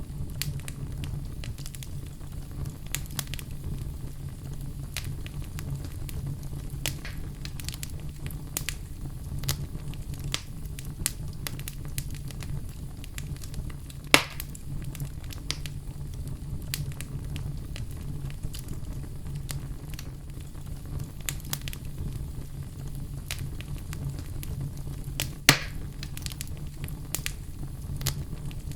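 Wood fire crackling in a fireplace: frequent small crackles and snaps over a steady low rumble, with two louder pops, one about halfway through and one near the end.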